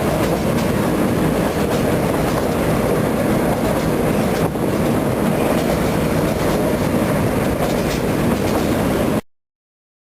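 Petit Train Jaune, a metre-gauge electric train, running along its track with a steady, loud rolling rattle. The sound stops abruptly near the end.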